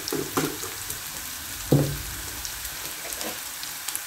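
Sliced onions, cumin seeds and ginger-garlic paste sizzling steadily in hot oil in a non-stick frying pan. A few short sounds come near the start and one brief, louder low sound just under two seconds in.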